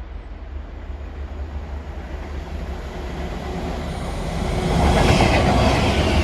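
Diesel-hauled intermodal container freight train approaching on the line. Its low rumble builds up and is loudest about five seconds in as it comes close.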